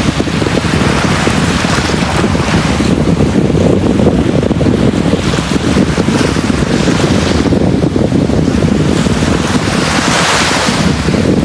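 Sea waves breaking and washing on a beach, a continuous surf rush that swells in brightness every few seconds, with low wind noise on the microphone.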